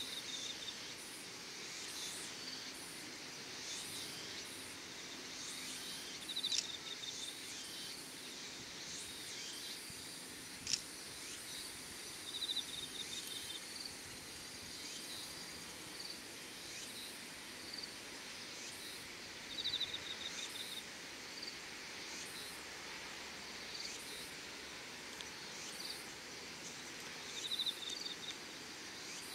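Evening insect chorus, faint and steady, with a short pulsed trill repeating about every six to eight seconds. One sharp click comes a little over a third of the way in.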